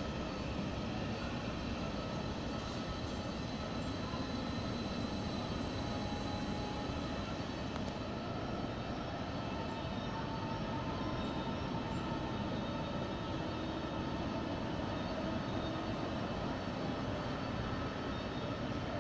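ODEG Stadler KISS double-deck electric multiple unit rolling along the platform: a steady rumble of wheels and running gear with faint thin tones above it, unchanging for the whole stretch.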